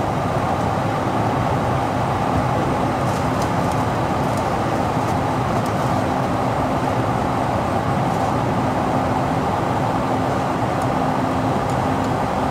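Steady drone of airliner cabin noise inside an Airbus A220-100 on the ground, with a constant low hum under it and a few faint ticks.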